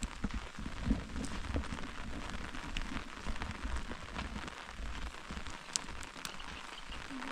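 Steady rain falling, with many small drop ticks through it and a few low thuds in the first two seconds.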